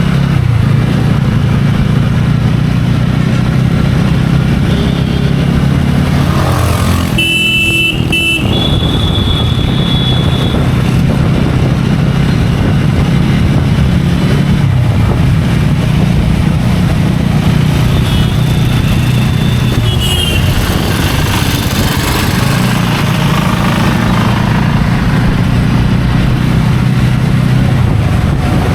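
A TVS Ronin's single-cylinder engine running steadily at road speed while the bike is ridden, with wind rushing past. Brief high tones sound about seven seconds in and again near nineteen seconds.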